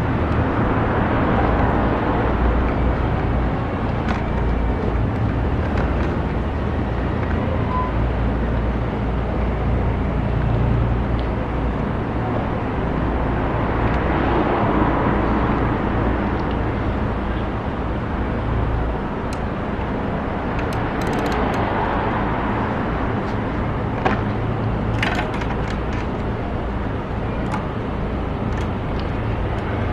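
An engine running steadily at an even low pitch, with a few light clicks in the second half.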